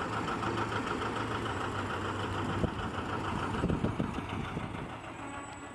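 Tractor engine running slowly past with an even, rapid beat, fading near the end.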